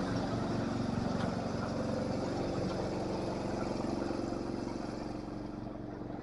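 Tractor engine running steadily, easing off slightly in level toward the end.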